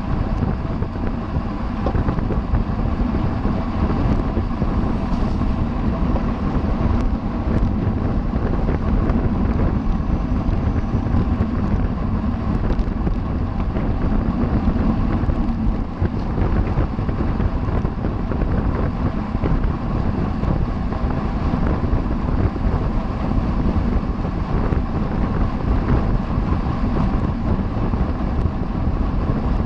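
Wind rushing over the microphone of a racing cyclist's camera at speed, a steady low rumble that never lets up.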